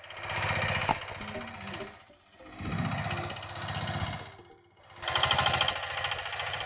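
Small engine of a homemade mini tractor running with rapid, even firing pulses. Its loudness swells and fades, dipping out briefly about two seconds in and again near four and a half seconds.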